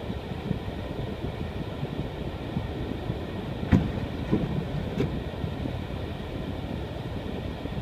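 Car driving on an unplowed, snow-covered road: a steady low rumble of tyres and engine, with two sharp knocks about halfway through.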